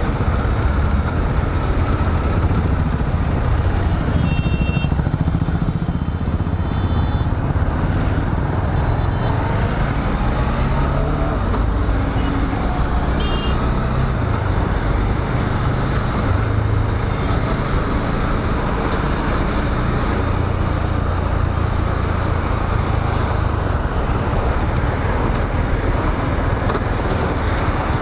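Riding a motorcycle through city traffic: a steady rush of wind and road noise over the microphone, mixed with engine and traffic sound. A few short high beeps, like vehicle horns, come about four seconds in and again about thirteen seconds in.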